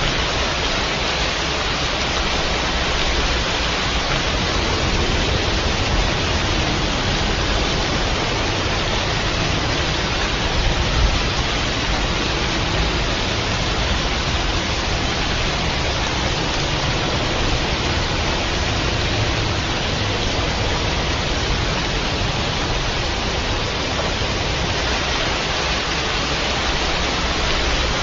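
Steady heavy rainfall, a dense, even hiss without a break.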